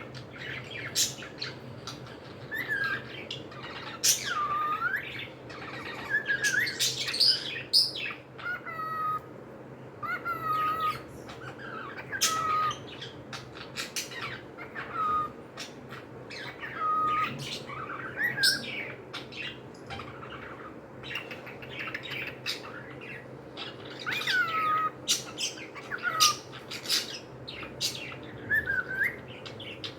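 Pet cockatiels calling: a steady run of short chirps that swoop down and hook back up in pitch, mixed with harsh squawks, every second or so. A faint steady low hum lies underneath.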